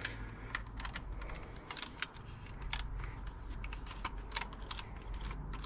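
Irregular light metallic clicks and clinks of hand tools, a socket and ratchet being handled and fitted, over a steady low hum.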